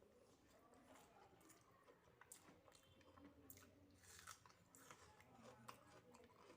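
Faint, close-up chewing of soft, wet food (rice, dal, mashed potato and omelet), with irregular wet mouth clicks and smacks.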